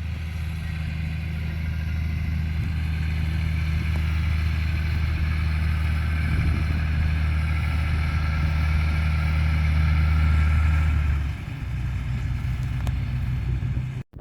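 Tractor engine running steadily, with a low, even engine note. About eleven seconds in the note drops and eases off, and the sound cuts off abruptly just before the end.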